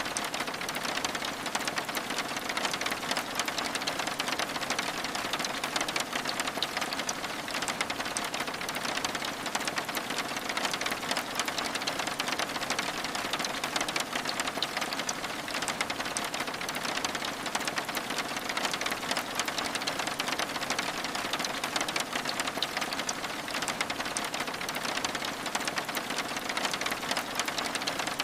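Steady rain pattering on a window: an even, unbroken hiss made of many fine drop ticks.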